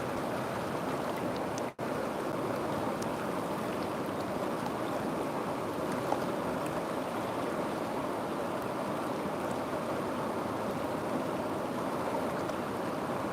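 River water flowing with a steady rushing sound, dropping out for an instant just under two seconds in.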